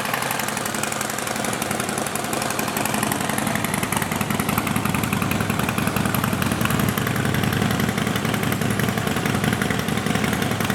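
Harley-Davidson CVO Pro Street Breakout's Twin Cam 110 V-twin idling steadily through a Vance & Hines aftermarket exhaust.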